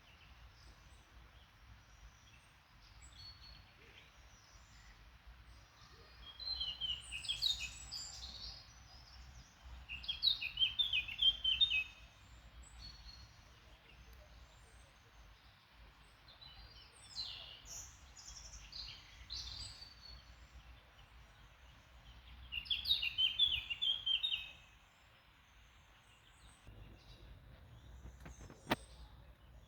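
A songbird singing four short, high trilled phrases a few seconds apart, over a faint steady background noise. A single sharp click near the end.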